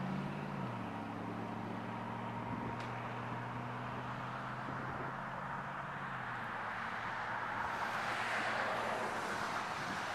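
A car engine idling as a steady low hum that fades out about six seconds in, over a constant rumble of road noise. A rushing noise swells and dies away near the end.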